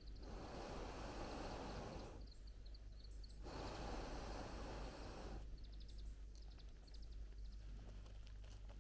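Small birds chirping in short repeated series. Twice, for about two seconds each time, a dense rushing hiss rises over them, once at the start and again about three and a half seconds in.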